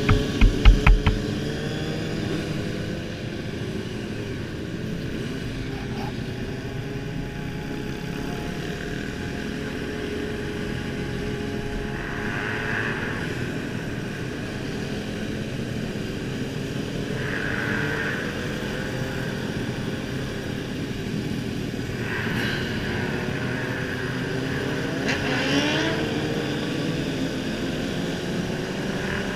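Motorcycle engines running and revving, their pitch rising and falling, with a quick run of loud pops in the first second.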